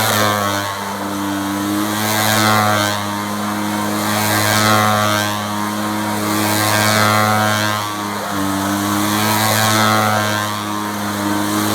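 Tractor engine running hard at a steady high speed, its sound swelling and easing about every two and a half seconds.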